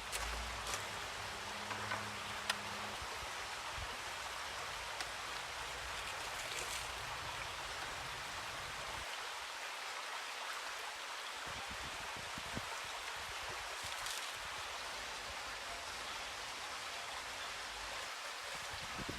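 Steady wash of water noise, with a few scattered sharp ticks.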